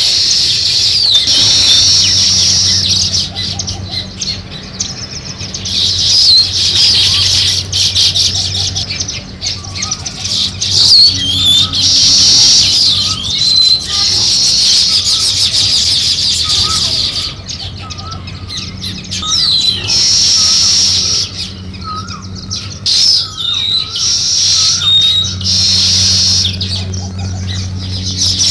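A flock of sparrows chirping continuously, many overlapping short calls. A low steady hum runs underneath in stretches.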